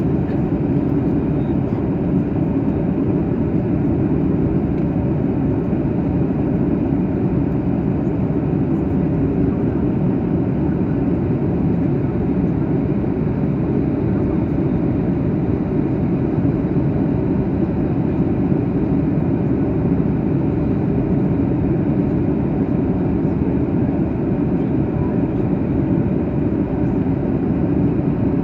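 Boeing 737-800 cabin noise in flight: the steady, even rumble and airflow rush of the CFM56-7B engines and the air streaming past the fuselage, heard from a window seat, deep in pitch and unchanging.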